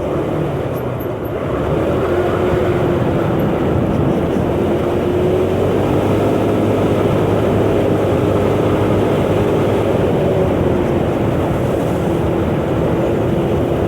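A 125cc motor scooter engine running at a steady cruise, holding one even note, over a continuous rush of wind and road noise. It grows a little louder about two seconds in.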